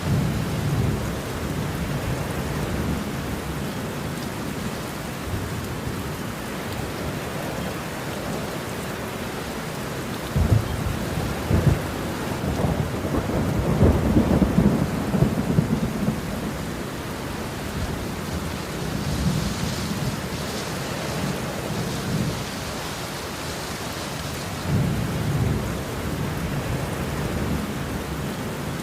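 Steady rain with rolling thunder: low rumbles swell and fade several times, the loudest and longest about ten to sixteen seconds in.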